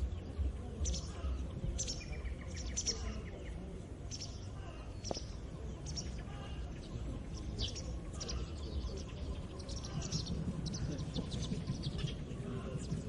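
Several birds chirping and singing, many short high calls overlapping, over a steady low background rumble.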